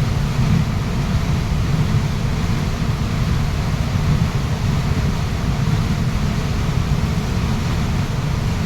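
Waterfall rushing steadily: an unbroken wash of falling water, heaviest in the low range.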